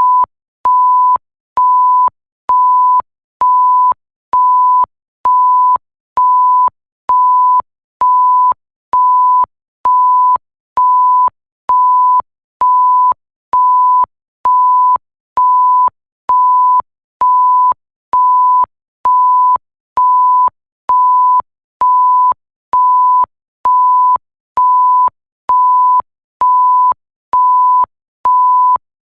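Electronic bleep sound effect: a single steady pure tone beeping on and off in even, identical beeps, about one a second, with a faint click as each beep starts and stops.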